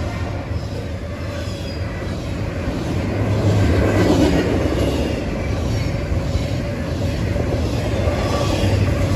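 Double-stack container train rolling past: a steady rumble of the well cars and their wheels on the rails, swelling a little about four seconds in.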